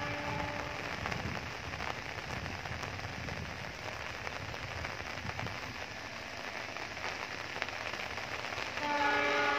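Steady rain falling, with a train horn fading out in the first second and sounding again near the end.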